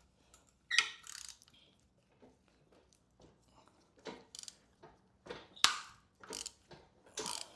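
Hand tools working bolts out of an N14 engine during teardown: scattered sharp metallic clicks and clinks of a ratchet and bolts, the loudest a bit over five seconds in.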